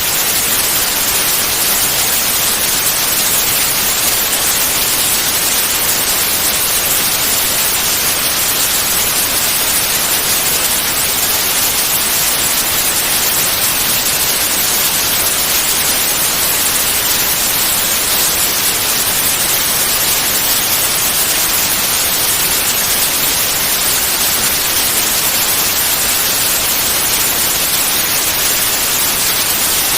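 Continuous white noise: a steady, even hiss, brightest in the high end, with no change.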